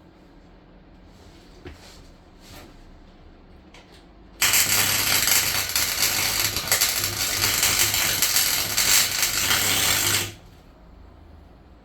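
Welding arc crackling steadily for about six seconds, starting about four seconds in and cutting off abruptly, with a low hum underneath; a few faint clicks before it.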